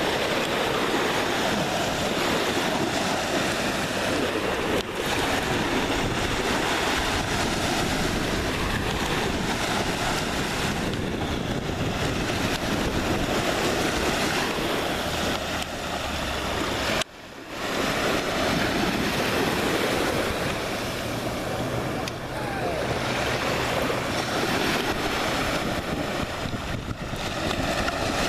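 Waves washing onto a beach, with wind rushing over the microphone; the sound drops out briefly about seventeen seconds in.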